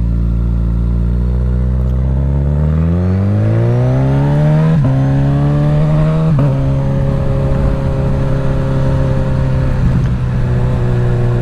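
Suzuki GSX-S1000's inline-four engine through a full Dominator exhaust, heard from a helmet mic while riding. The engine holds steady, then revs rise from about three seconds in, with a gear change about five seconds in and another about a second and a half later, then settles into a steady cruise.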